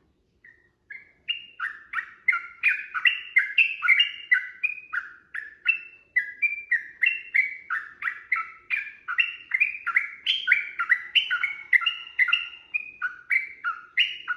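Sooty-headed bulbul (trucukan) song: a long, fast run of clear, bubbling notes, about three a second, alternating between higher and lower pitches.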